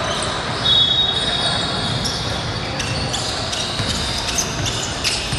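Basketball game sounds in a gym: a ball bouncing and sneakers squeaking on the court, over voices in the background. A high steady squeal lasting under a second comes about a second in and is the loudest sound.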